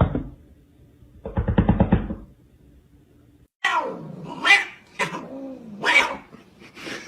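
Cat vocalizing: a short rattling, pulsed burst, then about four drawn-out meows that rise and fall in pitch.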